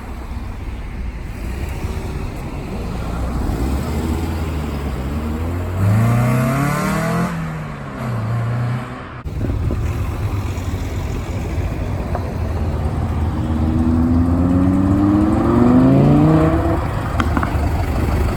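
Cars driving off one after another under a steady low engine rumble. One engine note rises and falls about six seconds in, and another climbs steadily in pitch as a car accelerates away near the end.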